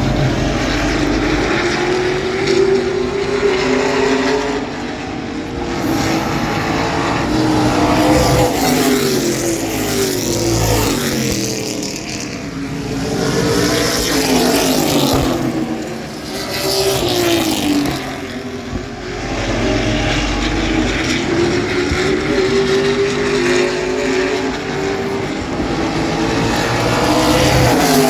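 Several race trucks' engines running around an oval track, their pitch rising and falling again and again as they come past and go away.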